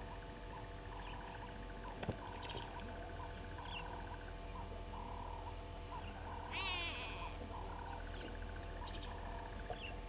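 Birds calling: many short repeated notes, with one loud harsh screech falling in pitch about two-thirds of the way in, over a steady low electrical hum.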